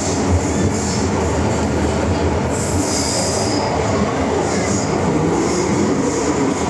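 MTR M-train electric metro train running, a steady loud rumble of wheels and motors, with a brief high-pitched hiss or wheel squeal about two and a half seconds in, lasting about a second.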